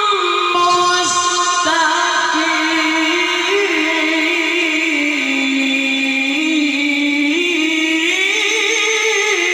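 A voice chanting one long, unbroken line that winds slowly up and down in pitch with small ornaments, in the melismatic style of Quran recitation.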